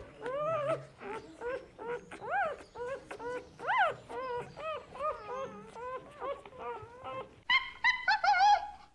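A dog whimpering and whining in a run of short, high, rising-and-falling cries, two to three a second. About seven and a half seconds in, the cries get louder and higher.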